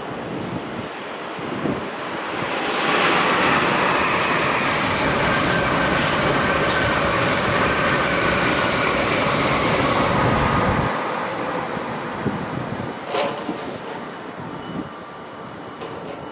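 A train passing on the main line. It rises to a steady loud rumble of wheels on rail with faint high wheel tones, holds for about eight seconds, then the low rumble cuts off and the sound fades.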